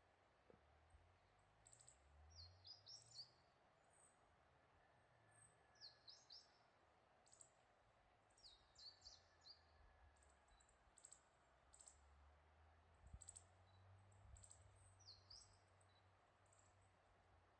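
Faint small-bird calls: short, high chirps in little clusters every second or two, over a low rumble of wind.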